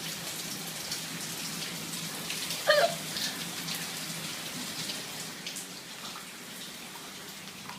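Water from a burst pipe dripping and splattering steadily indoors, like rain falling inside the room. A brief squeak-like sound stands out about three seconds in.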